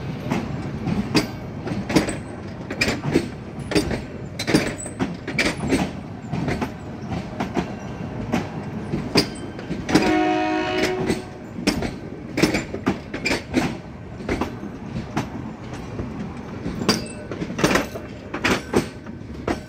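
Metre-gauge heritage train coaches rolling slowly past, their wheels knocking over rail joints in an irregular clickety-clack. About halfway through, a train horn sounds once for about a second.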